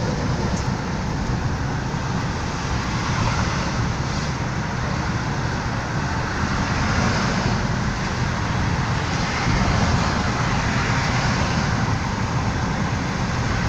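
Steady road noise of a moving car heard from inside the cabin: engine hum and tyre noise with no sudden events, swelling slightly about two-thirds of the way through.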